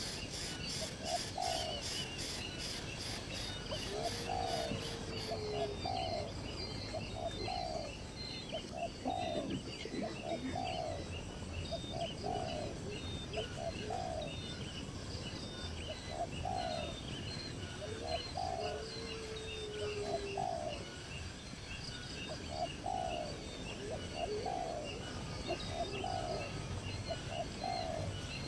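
Outdoor bird chorus: a dove coos in short notes, mostly in pairs, repeating about once a second, over many small high chirps from other birds. A fast high pulsing sound stops about five seconds in.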